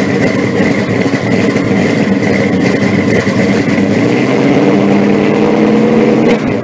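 Car engine running steadily at idle, getting a little louder about four seconds in and dropping off near the end.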